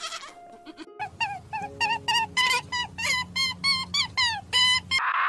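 A rapid run of short, high-pitched animal calls, about four a second, starting about a second in, over faint steady background music, with a brief noisy burst at the very end.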